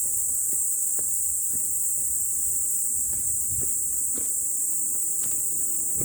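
Steady high-pitched insect chorus, with soft irregular footsteps underneath, roughly every half second.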